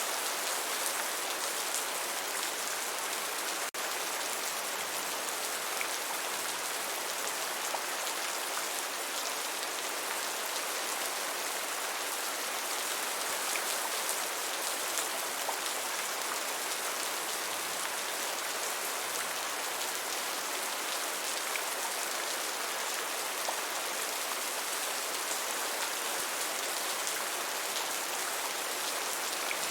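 Steady rain: an even, hissing patter with faint individual drop ticks. A very brief dip in level comes about four seconds in.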